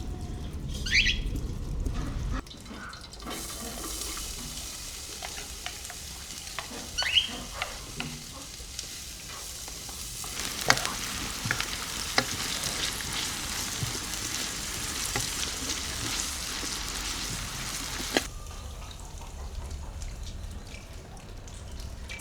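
Food sizzling in hot oil in a pan, with sharp clicks and knocks from a utensil as it is stirred. The sizzling starts suddenly about three seconds in and cuts off about four seconds before the end.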